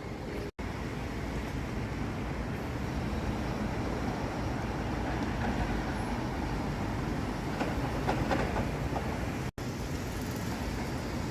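Steady low rumbling background noise of the kind wind on the microphone or distant traffic makes, with two abrupt silent gaps: one about half a second in and one near the end.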